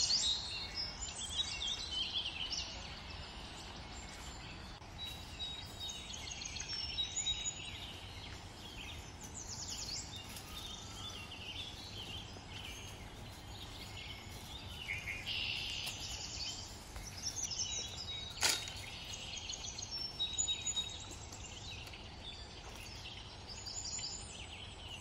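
Small birds chirping and singing in many short, overlapping calls and trills over a steady low background noise, with one sharp knock about eighteen seconds in.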